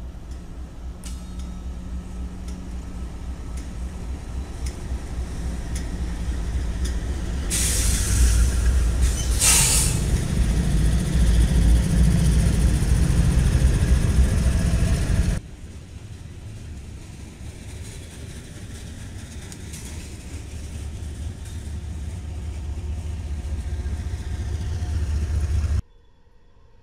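CSX diesel freight locomotives and their cars running past, a deep rumble that grows steadily louder, with two short hisses about 8 and 9.5 seconds in. It drops abruptly after about 15 seconds to a quieter low rumble that builds again and cuts off just before the end.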